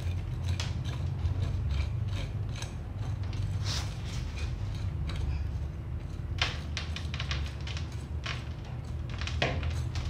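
A metal root hook scraping and raking through the dry, compacted root ball of a bonsai forest, giving irregular scratchy clicks and crumbling soil as the roots are combed out and the old soil broken up. A steady low hum lies underneath.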